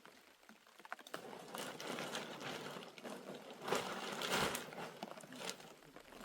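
Rustling and crackling with many small sharp cracks, starting about a second in, loudest a little past the middle and fading near the end.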